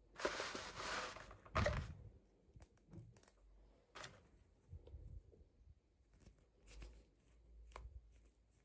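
Toy packaging being torn open and handled: a rasping tear for about a second at the start, a sharper burst just after, then scattered light clicks and taps.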